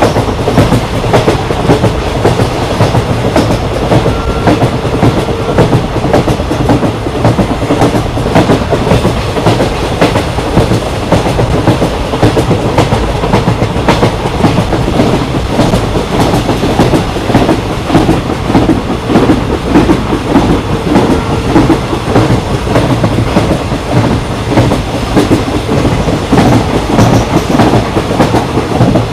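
Patna Kota Express passenger train running at speed, its wheels clattering over the rail joints in a fast, steady clickety-clack over a continuous rumble.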